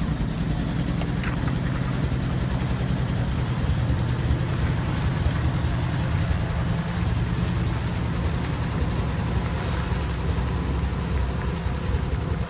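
1954 Chevrolet 6400 truck engine idling steadily.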